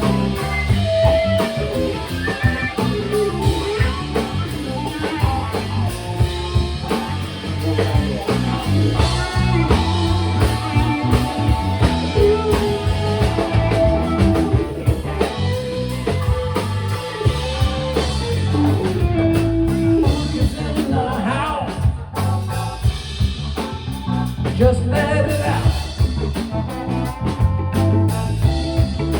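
Live funk band playing, with electric guitar, bass, drum kit and singing over a steady beat.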